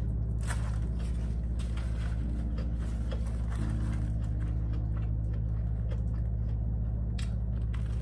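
Chewing and crunching on a banh mi sandwich, a few crisp bites of the baguette standing out now and then. Under it runs steady background music with low held chords that change every second or two.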